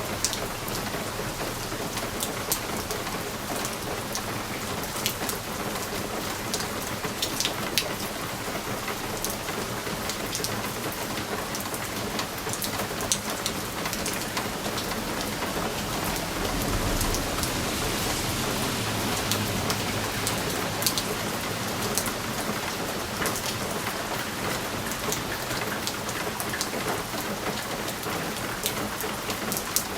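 Steady rain pattering on a window pane, with many separate drops ticking sharply against the glass. A low rumble swells briefly a little past the middle.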